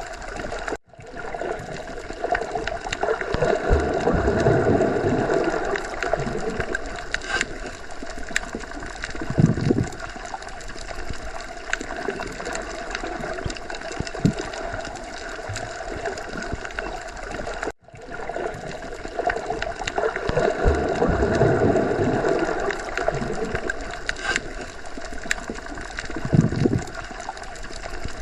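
Underwater sea ambience: a continuous muffled rush and gurgle of water that swells and eases slowly, with occasional brief surges. It drops out suddenly for an instant about a second in and again about 17 seconds later, where the looped recording starts over.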